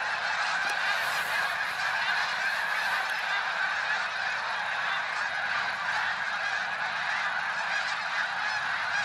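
A huge flock of birds calling all at once: a steady, dense din of many overlapping calls.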